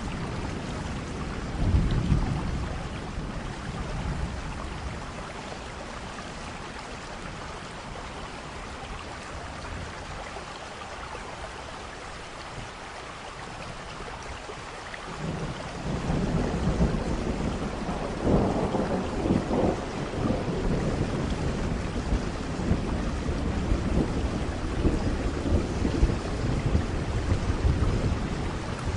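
Steady rain with rolling thunder in a thunderstorm. A short rumble comes about two seconds in. From about halfway a long, heavy roll of thunder builds, peaks a few seconds later and keeps rumbling.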